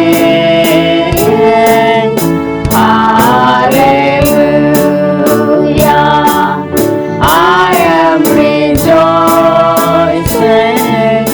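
Worship song: a lead singer and congregation singing a hymn melody over instrumental accompaniment, with a steady beat of about two strokes a second.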